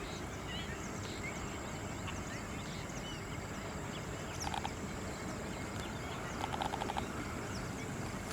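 Birds calling: many small high chirps, with short bursts of rapid chattering notes twice, about halfway through and again near the end, over a steady background hiss.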